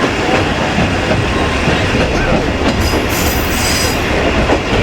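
KiHa 20 diesel railcar running along the line with a steady rumble of engine and wheels on rail. About three seconds in, a high-pitched wheel squeal lasts about a second.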